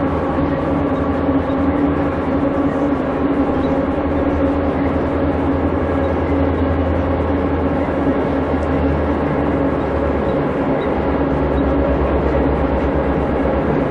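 Diesel locomotive engine running steadily and loud, a constant low drone with a held hum.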